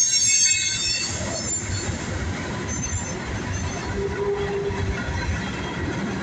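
Norfolk Southern freight train rolling past, its heavy steel-coil cars giving a steady rumble of wheels on rail. High-pitched wheel squeal rings in the first second or so, fades, and returns briefly around three seconds in.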